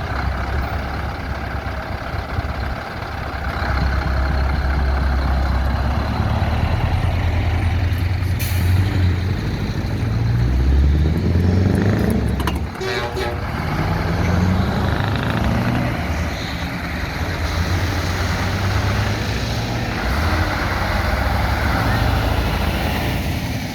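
Heavy truck diesel engines running and revving, the pitch climbing twice as they pull through the gears, with a brief hiss of air about eight seconds in.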